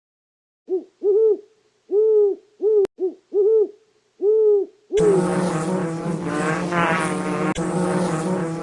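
Seven short hooting calls at an uneven pace, each rising and falling in pitch. About five seconds in they cut abruptly to a louder, dense sound with many rising and falling tones.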